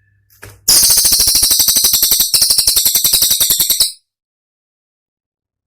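Cililin songbird singing a loud, very fast rattling trill of high, sharp notes for about three seconds. It starts just under a second in and cuts off abruptly into silence.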